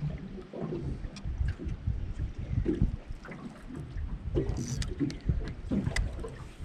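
Choppy water slapping against a small boat's hull in strong wind, with irregular low thumps and a few small clicks.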